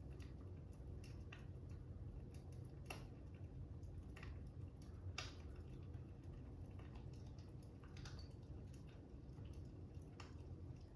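Fire crackling, faint: scattered, irregular pops over a low, steady rumble.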